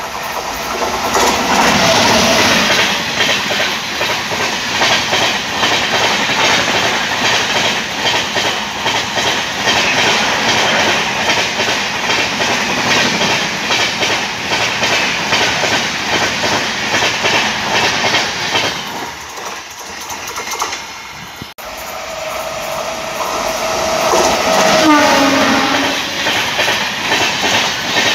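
Passenger express trains passing at speed: the first, behind an electric locomotive, rushes by with its wheels clattering rapidly over the rail joints. After a sudden cut about 21 seconds in, a second train's coaches race past and a train horn sounds for a few seconds, its pitch dropping.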